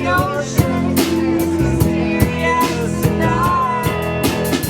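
Live band playing a song, with guitar and drum kit and a melody line that slides in pitch.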